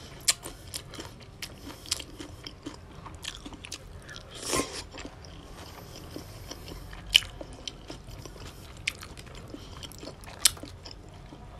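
Close-up mouth sounds of a person chewing raw salmon salad with crisp Napa cabbage: a steady run of wet clicks and crunches, with a few sharper crunches and a brief louder rushing sound near the middle.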